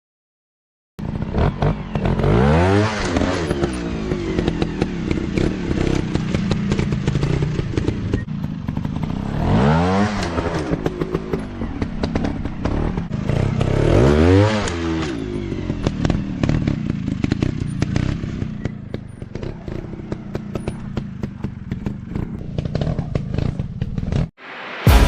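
Dirt bike engine revving up and falling back several times, with a lot of clatter. It starts about a second in and cuts off suddenly near the end.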